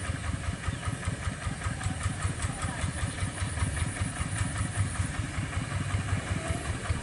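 Single-cylinder diesel engine of a two-wheel hand tractor running steadily, with a rapid, even chugging beat.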